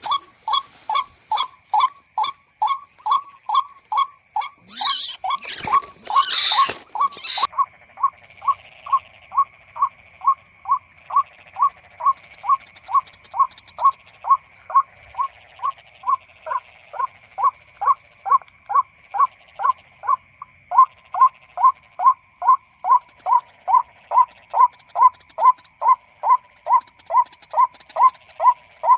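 White-breasted waterhen lure call played on a loop, a harsh 'kwak' repeated evenly about two and a half times a second. A loud burst of noise cuts across it from about five seconds in for two or three seconds.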